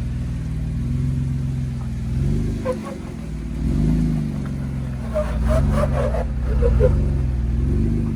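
Off-road vehicle engine revving up and down in repeated swells, about one a second, as it works over the trail.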